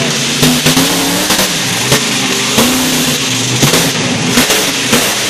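Large engine revving up and down repeatedly, with many sharp cracks between the revs.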